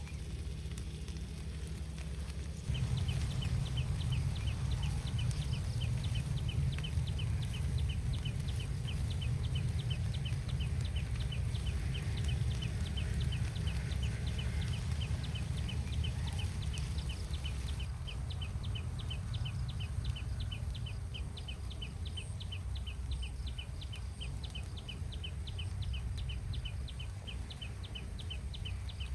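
Forest night ambience: a small animal chirping a high, quick, evenly spaced call, about five chirps a second, that starts about three seconds in and keeps going over a steady low rumble.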